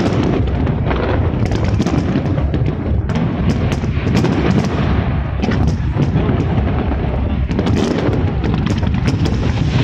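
Fireworks display in full barrage: many shells bursting in quick succession, sharp bangs and crackles over a continuous low rumble. Crowd voices mix in underneath.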